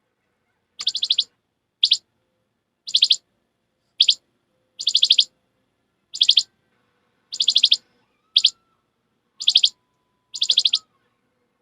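Bird-like chirping in about eleven short bursts, roughly one a second, each a quick run of high chirps.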